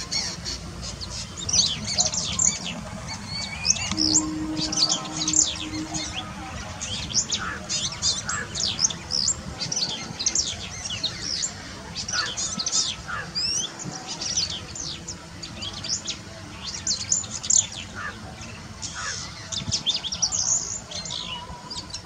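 Small birds chirping in a dense chorus: many short, high chirps and quick pitch sweeps overlapping throughout.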